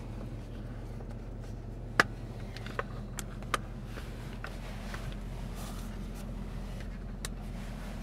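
Car engine idling, a steady low hum heard from inside the cabin, with clicks and knocks from the camera being handled: a sharp click about two seconds in, then several smaller ones.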